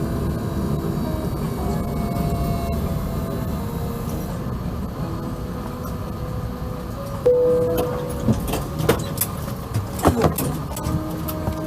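Steady low rumble inside the cabin of a Thai Airways Airbus A380 after landing, with a brief tone about seven seconds in and several sharp clicks and knocks near the end.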